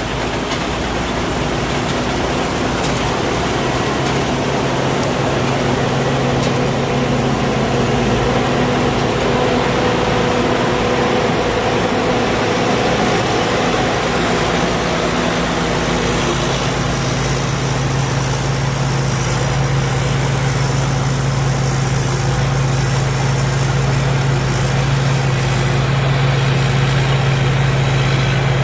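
Thai Seng Yont Chao Payu 4.0 rice combine harvester running steadily while cutting lodged rice: a constant engine drone with a thin high whine over it. The low engine note grows stronger about halfway through.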